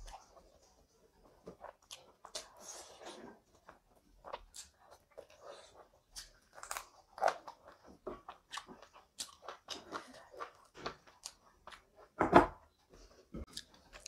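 Close-miked chewing and mouth smacks of a person eating rice and curry by hand, with irregular short clicks and one louder smack about twelve seconds in.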